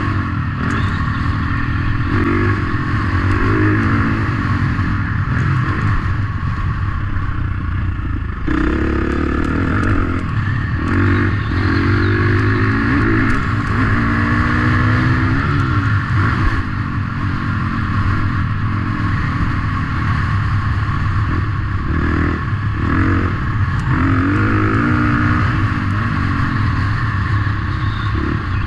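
Motocross dirt bike engines running loud and revving up and down over and over, with an abrupt change in the sound about eight seconds in.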